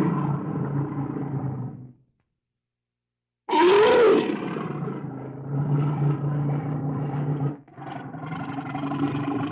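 A large animal roaring: a loud roar starts suddenly after a gap of silence, rising then falling in pitch, followed by continued rough growling with a brief break near the end. Before the gap, a different low sound fades out about two seconds in.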